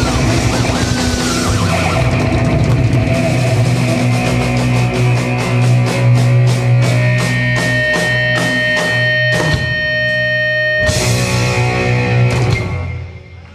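Live jazz-rock fusion band with drum kit and electric guitar playing the close of a tune: a run of rapid, evenly spaced unison hits, then a final crashing chord that is held for a second or so and dies away near the end.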